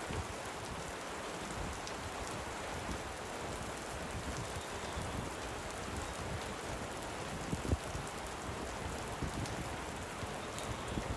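Steady light rain falling, with scattered drops ticking close by and one louder sharp tap a little after two-thirds of the way through.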